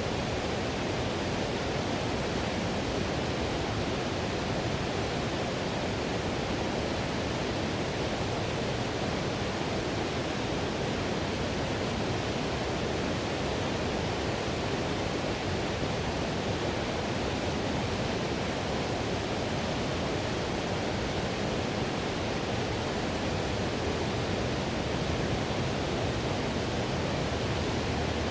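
Whitewater river rushing steadily: an even, unbroken rush of water, fullest in the low-mid range.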